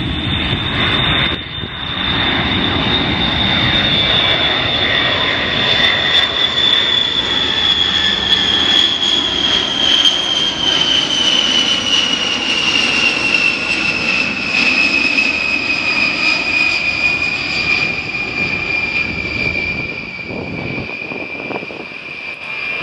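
Boeing B-52H Stratofortress's eight Pratt & Whitney TF33 turbofan engines on a pass with gear and flaps down: a steady loud roar with a high whine that slowly falls in pitch as the bomber goes by.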